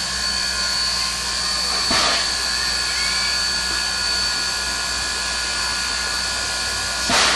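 Steam locomotive standing with a steady hiss of escaping steam and a thin high whistle-like tone in it. It swells louder briefly twice, about two seconds in and again near the end.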